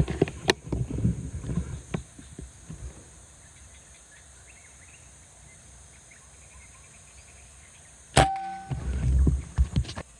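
A single air rifle shot about eight seconds in: a sharp crack with a short metallic ring, followed by rustling as the gun is handled. Rustling and handling noise fill the first few seconds.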